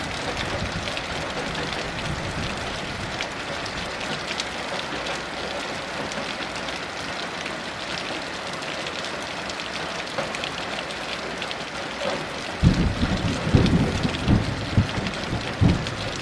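Heavy rain falling steadily, a dense hiss with fine drop patter. About three-quarters of the way through, a low rumble of thunder rolls in, in uneven swelling surges.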